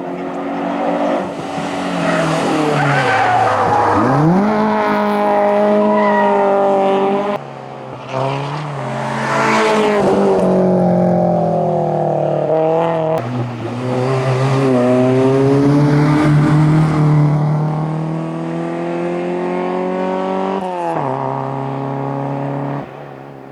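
Citroën Saxo hillclimb car's four-cylinder petrol engine driven flat out, revs climbing through the gears and dropping on lifts and downshifts. About halfway through, the sound gives way to a Peugeot 106 racing the same way, its engine rising and falling in pitch before it fades near the end.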